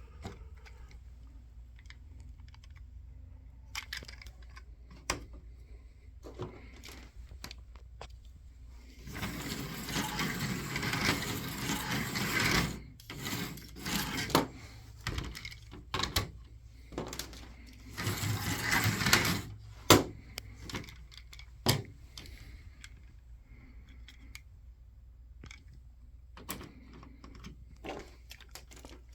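Carrera Digital 143 1:43-scale slot cars running on a plastic track in spurts, small motors and wheels rattling along, with scattered clicks and knocks between runs and one sharp knock about twenty seconds in.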